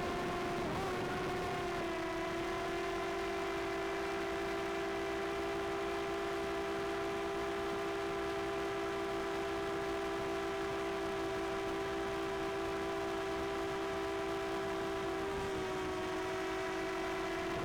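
Propellers of a DJI Air 2S quadcopter drone whining steadily in flight, one held pitch with overtones, dipping briefly about half a second in and again near the end.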